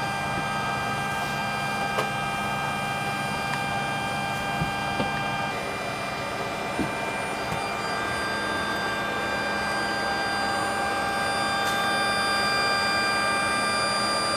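Il-86 auxiliary power unit running steadily at idle while it warms up, a whine of several steady tones. The mix of tones shifts slightly about halfway through, and there are a few faint clicks.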